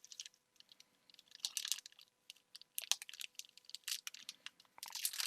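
Pokémon booster pack foil wrappers and cards being handled: soft crinkling and rustling with scattered light clicks, denser about a second and a half in and again near the end.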